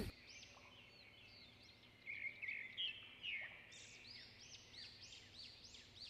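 Faint songbird singing: a few quick chirps and warbled notes, then a steady run of repeated high arching whistles, about three a second.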